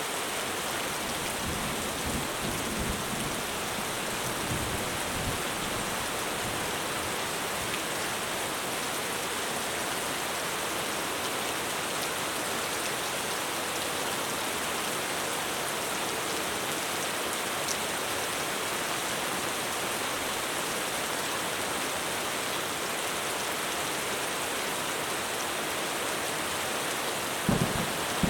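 Heavy rain falling steadily on a roof, a dense even hiss, with a couple of brief low thumps near the end.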